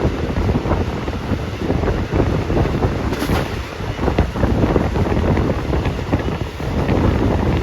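Wind buffeting the phone's microphone, a steady rough rumble with no speech.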